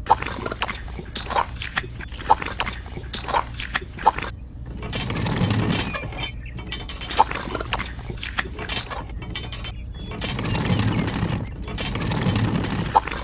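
Irregular clicks and clatter of small hard parts, in quick runs, alternating with short stretches of a steady rushing noise.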